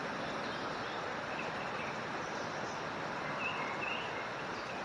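Steady hiss of a camp stove burner turned down to a simmer under a canteen cup, with a few faint bird chirps from about two seconds in.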